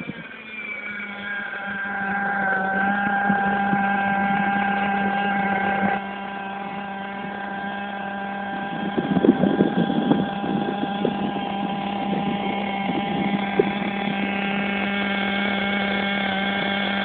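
Small nitro (glow-fuel) engine of an RC truck running with a steady, high-pitched buzz. It drops a little in level about six seconds in, and some rougher, irregular noise joins it around nine to eleven seconds in.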